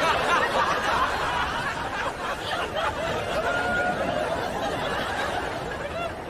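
Many people laughing and chattering at once, like an audience laughing.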